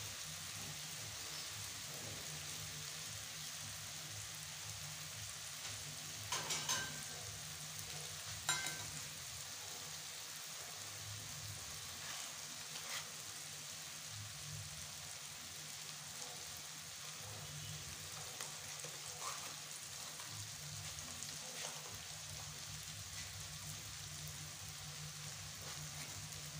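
Onions, tomatoes and ginger-garlic paste sizzling steadily in hot oil in a kadhai, over a low steady hum. Two brief sharp clicks come about a quarter of the way in.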